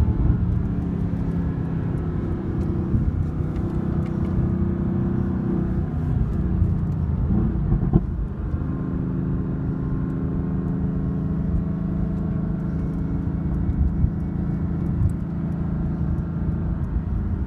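Mercedes-AMG GT's twin-turbo V8 running steadily at low speed, heard from inside the cabin. The note shifts in pitch around six to eight seconds in, with a single knock at about eight seconds.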